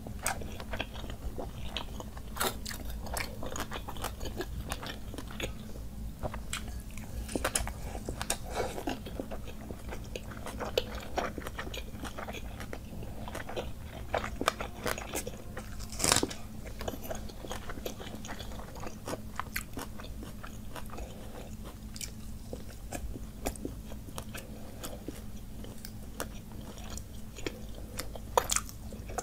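Close-miked eating sounds: chewing and crunchy bites, with many short wet clicks as a hand works through rice soaked in water, one sharper crunch about halfway through, over a steady low hum.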